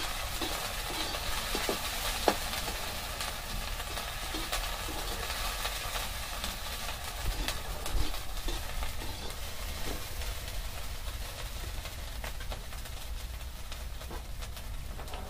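Food sizzling as it fries in a metal kadai over a wood fire, with a spoon scraping and tapping against the pan as it is stirred; one sharper tap about two seconds in.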